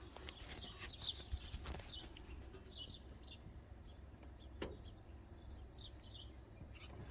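Faint birds chirping, many short calls scattered throughout, over a low steady rumble, with a single tap about four and a half seconds in.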